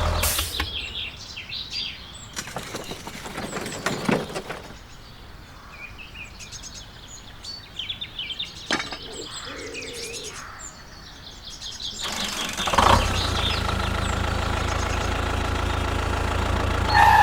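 Small birds chirping, with a few scattered clicks. About thirteen seconds in, an engine starts and then runs steadily at a louder level than the birds.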